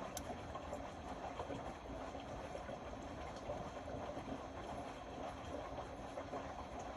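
Indesit Innex BWE 91496X front-loading washing machine running a wash, its drum turning with a steady churning noise, water and faint small clicks.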